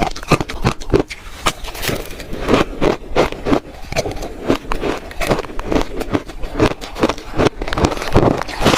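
Close-miked crunching of shaved ice being bitten and chewed, a dense, irregular run of sharp crackles and crunches several times a second.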